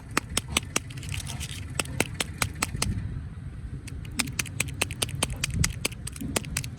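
Candy packaging being handled and unwrapped: a quick run of sharp clicks and crackles over a low rumble.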